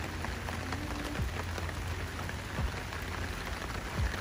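Steady heavy rain falling on wet pavement, with scattered individual drops splattering close by.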